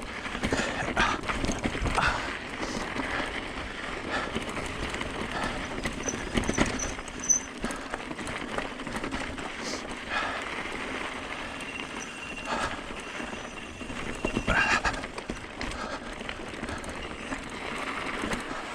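Hyper 29er mountain e-bike clattering down a rocky section of wet dirt trail: irregular knocks and rattles from the bike over the rocks, with steady tyre noise between them.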